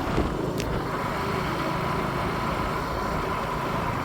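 Steady motor-vehicle running noise: a continuous low engine and road rumble.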